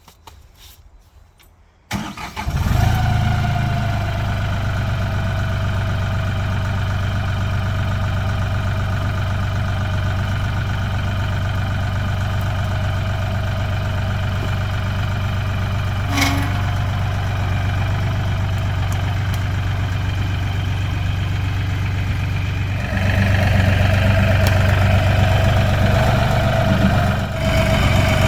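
Diesel engine of a compact LS tractor cranking and catching about two seconds in, then idling steadily. Near the end it runs louder as the throttle is raised.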